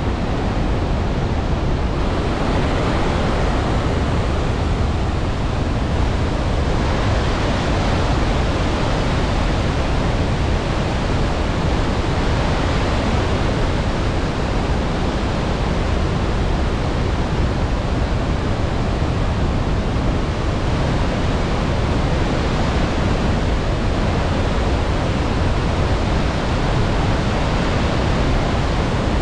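Iguaçu Falls: a great mass of water pouring down in a steady, dense rush, heavy in the low end, with no let-up.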